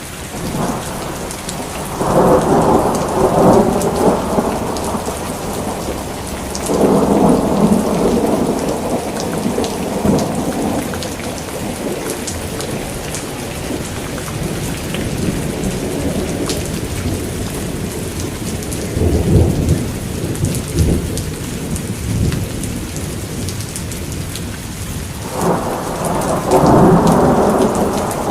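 Steady heavy rain falling, with thunder rolling in four long, low rumbles over it.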